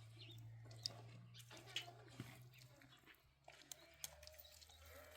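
Near silence: a faint steady low hum with a few scattered small clicks and traces of distant voices.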